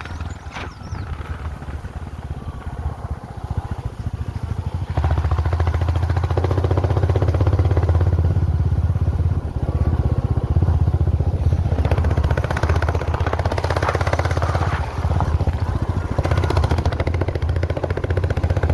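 A vehicle engine running steadily with a deep, pulsing rumble; it gets noticeably louder about five seconds in.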